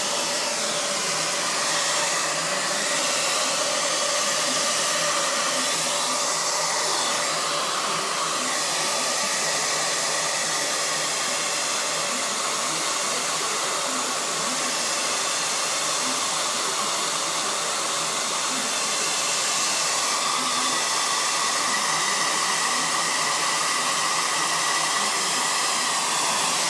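Handheld hair dryer running steadily: an even rush of air with a steady motor whine.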